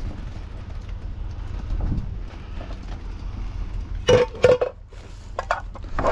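Metal clanking: a few sharp knocks with a short ringing about four seconds in, smaller ones after, and a louder one at the very end, as metal scrap is shifted around. Under it runs a steady low rumble of wind on the microphone.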